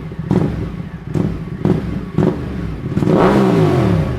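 Ducati motorcycle engine breathing through an SC-Project slip-on exhaust, blipped sharply on the throttle about every half second. Near the end it gives one longer rev that climbs and falls back.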